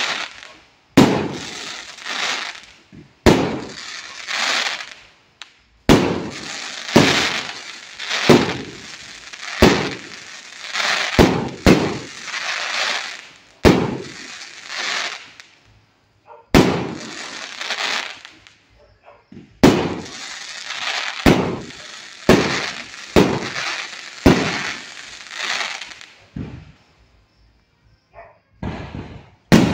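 Aerial fireworks going off in quick succession: sharp bangs about every one to two seconds, each trailed by a crackling hiss from the bursting stars. The bangs let up briefly near the end, then a few more come.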